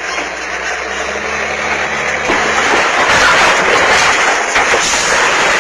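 Vehicle noise: a steady rushing sound with a low hum that grows louder about two seconds in.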